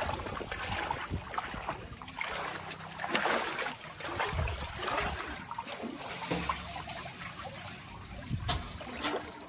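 Water splashing and trickling in uneven surges, as when water is thrown or runs over a vehicle.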